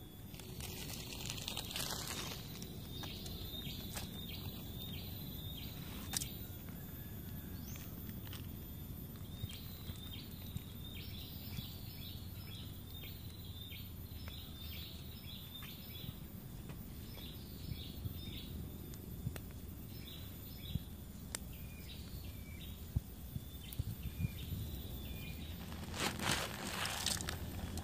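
Outdoor woodland ambience: a bird chirping in repeated short, high calls over a steady low rumble, with scattered faint clicks. A brief rustling hiss comes near the end.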